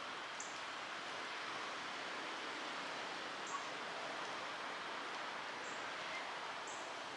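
Steady outdoor hiss of trail ambience, with a short high bird chirp repeated every one to three seconds.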